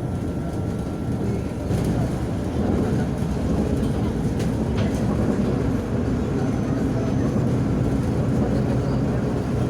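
Inside a moving MAZ-105 articulated city bus: a steady engine and road rumble that grows a little louder about two seconds in, with a few faint rattles.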